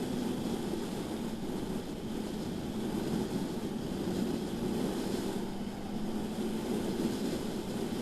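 BMW S1000RR inline-four engine running at a fairly steady pitch, under a steady rush of wind noise on the microphone.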